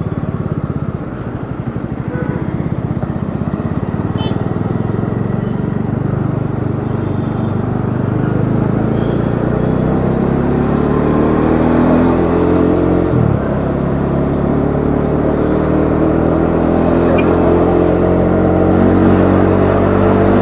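Bajaj Dominar 400's single-cylinder engine on the move, running steadily at first, then accelerating from about halfway with its pitch climbing. There is a quick dip in pitch at a gear change, after which it climbs again.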